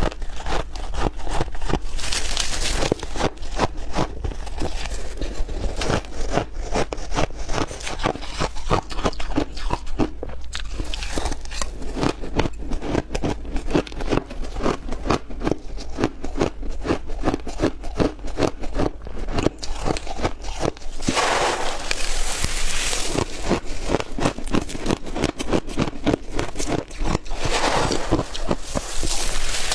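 Close-up crunching of chunky ice being bitten and chewed, a dense run of rapid crunches. Louder, fuller crunches come about two seconds in, around twenty-one seconds and again near the end.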